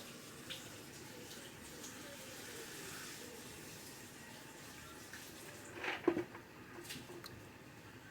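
Faint sound of moving water in a home-made fish tank, with one brief louder sound about six seconds in.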